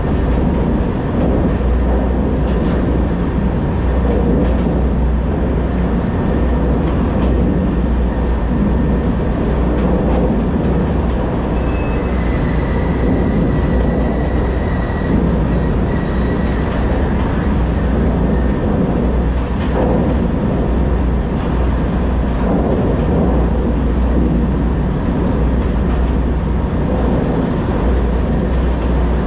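Semi truck on the move: steady engine rumble and road noise with no let-up. A faint thin whine comes in about twelve seconds in and fades out a few seconds later.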